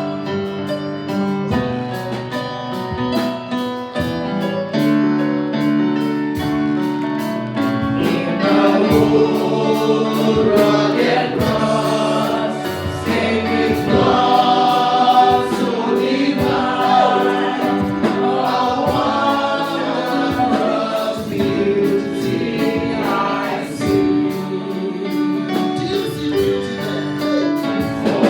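Gospel praise-and-worship music: a choir singing over held keyboard chords and a steady beat. The voices come in stronger about eight seconds in.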